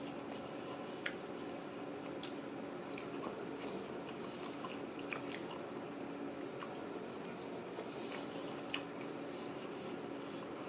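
A person chewing a mouthful of a tofu, rice and bean burrito bowl, with wet mouth sounds and a few sharp clicks scattered through, over a faint steady hum.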